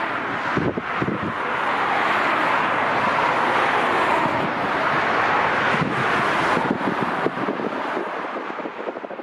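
Jet airliner engines passing as a steady broad rush that swells and then fades near the end, with wind buffeting the microphone.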